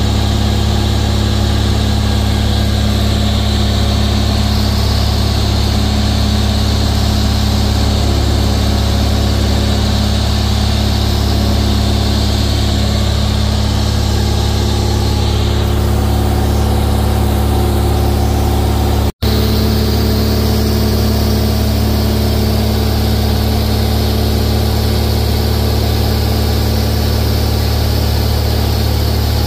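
Cessna 172's piston engine and propeller droning steadily, heard inside the cabin with air noise. The sound cuts out completely for an instant about two-thirds of the way through, then resumes unchanged.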